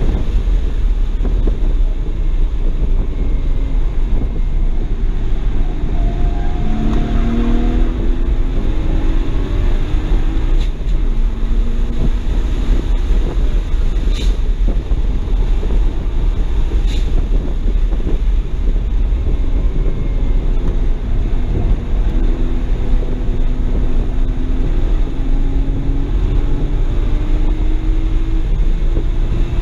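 Cabin sound of a 2007 BMW 335i's N54 twin-turbo inline-six at speed on a race track, its engine note rising and falling with the throttle over a heavy low rumble of wind and road noise. A few sharp clicks stand out near the middle.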